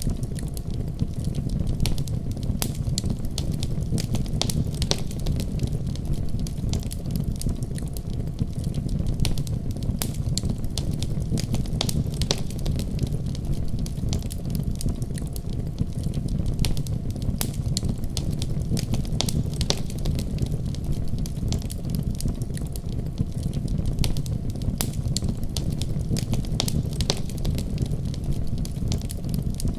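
Wood fire burning with a steady low rumble of flame and frequent sharp, irregular crackles and pops.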